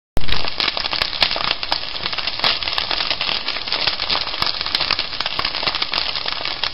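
Cornmeal griddle cakes frying in hot oil or margarine in a skillet: a dense, steady sizzle full of sharp pops and spatters, cutting in abruptly just after the start.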